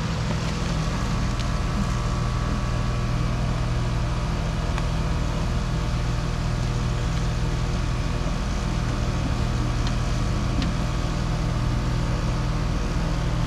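Outdoor air-conditioner condensing unit running steadily, a low compressor hum under the whoosh of its fan.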